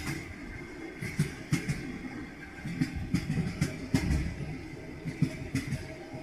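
Train wheels knocking over rail joints, a rolling clatter of short knocks in uneven clusters over a steady rumble.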